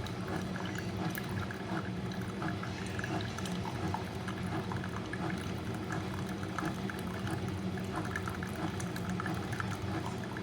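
Mecity single-serve pod coffee maker brewing: a steady stream of coffee pouring into a mug, over a steady low hum.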